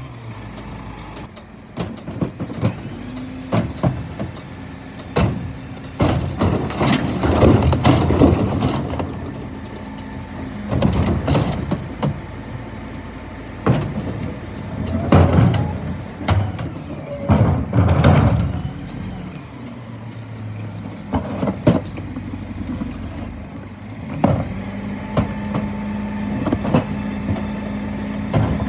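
Scania P320 refuse truck working, its engine running steadily under repeated loud bursts of clattering and sharp knocks.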